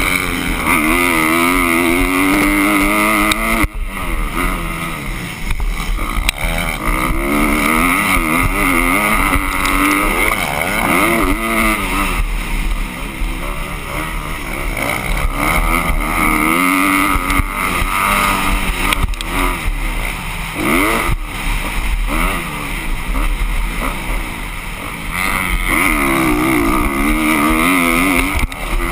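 Motocross dirt bike engines revving, their pitch climbing and dropping again and again through acceleration and gear changes, over a steady rushing noise.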